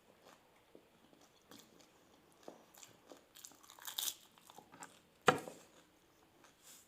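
Doi fuchka (crisp pani puri shells filled with yogurt) crunching as they are bitten and chewed. The crunches come as scattered short cracks, with a cluster about four seconds in and one louder, sharp crack a little after five seconds.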